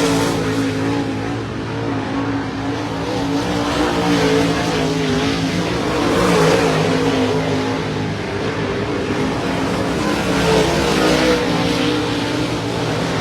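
Several dirt-track modified race car engines running at once, their pitches rising and falling against each other.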